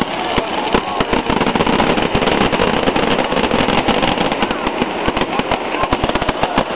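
Fireworks display going off in a dense, continuous barrage of rapid bangs and crackles, many per second.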